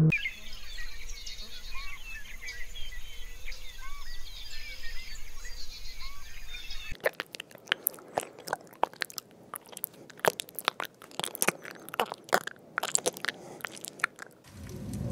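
High, short chirps for about the first half, then an irregular run of sharp crunching clicks, several a second, that stops shortly before the end.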